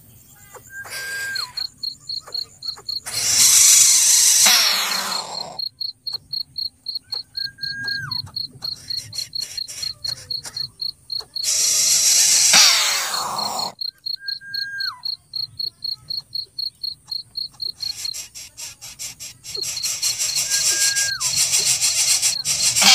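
Insects chirping in a fast, even pulse, about three pulses a second, with a thin steady high tone. Loud rasping swells rise and fade away three times, and a short whistle-like note recurs about every seven seconds.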